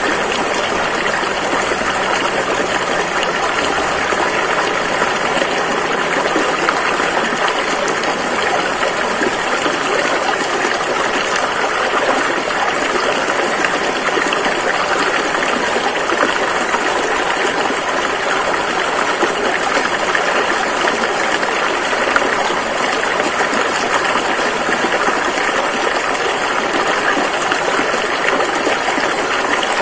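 A river rushing over rocks: a steady, loud wash of flowing water with no breaks or changes.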